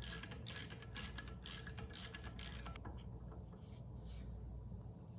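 Ratchet wrench being worked back and forth on the generator rotor bolt, a burst of pawl clicks about twice a second, six strokes that stop about three seconds in.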